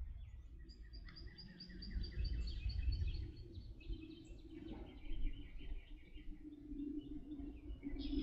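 Songbird chirping in quick repeated notes, starting about a second in, over a low outdoor rumble.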